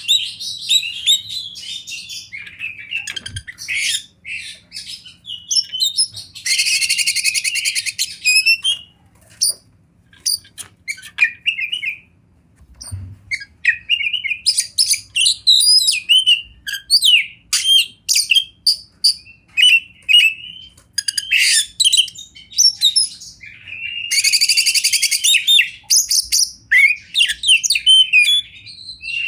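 Oriental magpie-robin singing a long, varied song of whistled notes and quick phrases, broken twice by a fast rattling trill lasting about two seconds: once about a quarter of the way through and again near the end.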